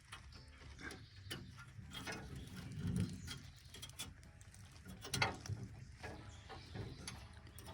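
A stiff wire being pushed and worked up through the drain opening of an old truck's fuel tank, scraping and clicking irregularly against the metal, with a louder knock about three seconds in and another about five seconds in. The tank is being probed because nothing drained from it.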